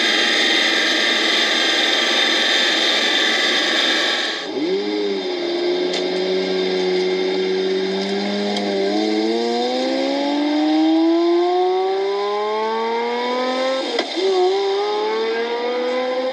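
A car engine accelerating. After a dense, hissy sound cuts off about four seconds in, the engine note holds steady for a few seconds, then climbs in pitch, dips sharply near the end and starts climbing again.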